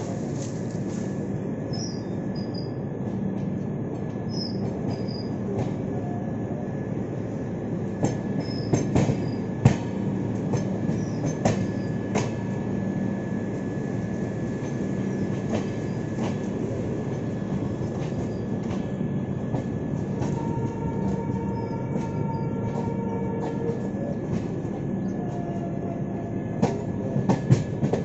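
Passenger train running on the track with a steady rumble. Clusters of sharp clicks from the wheels over rail joints come about a third of the way in and again near the end, and a faint high squeal from the wheels is heard a little past two-thirds of the way.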